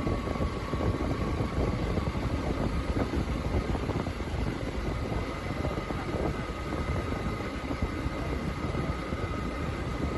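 Motorcycle riding along a road: steady engine and road rumble with a faint constant whine, running without a break.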